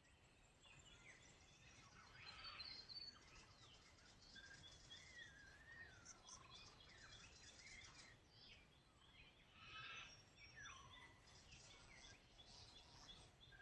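Faint mixed birdsong, several birds calling at once with varied chirps and whistles, including a winding whistle about five seconds in, over a low steady background rumble.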